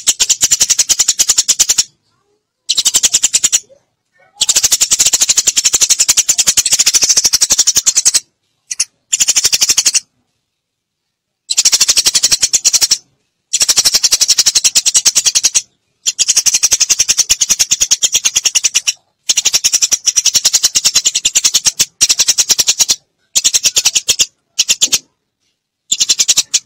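Eurasian tree sparrows chattering: fast, dense runs of high chirps in bouts of one to four seconds, broken by short silent gaps. This is a sparrow lure call, played to draw wild sparrows in.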